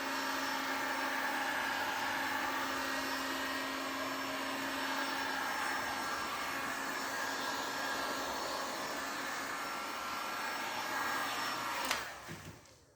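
A small electric motor, like that of a handheld blower or power tool, running steadily and then switched off about a second before the end, winding down quickly.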